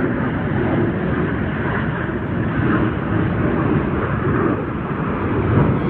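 Airplane flying overhead: a loud, steady rumbling noise that swells slightly near the end.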